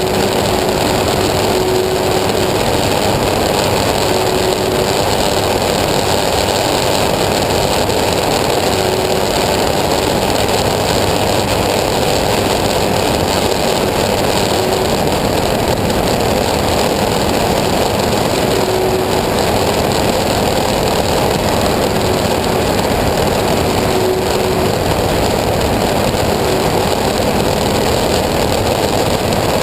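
Engine of a homemade aircraft running steadily, loud and even, with a faint tone that comes and goes.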